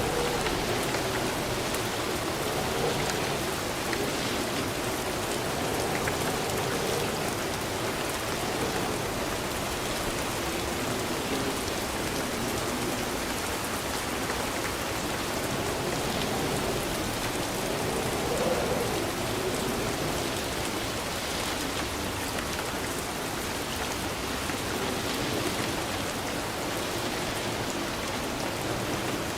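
Steady rainfall, drops pattering on a surface.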